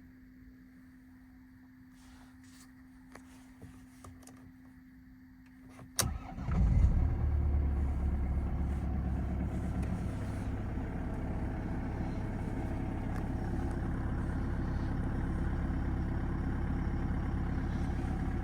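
Mercedes-Benz OM651 2.1-litre four-cylinder diesel in a W204 C220 CDI, cold start. At first there is a faint steady hum and a few clicks. About six seconds in, the engine cranks briefly and catches, surges for a moment, then settles into a steady diesel idle.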